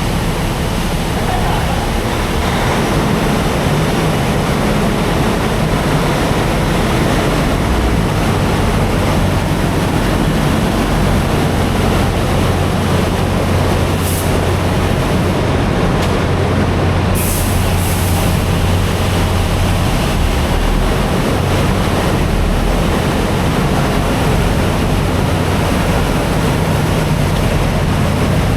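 Steady hiss of high-pressure water spray washing a semi truck, over the low, even hum of a diesel engine idling.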